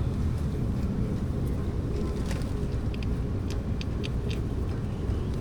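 Steady low background rumble with a few faint, short clicks scattered through the middle.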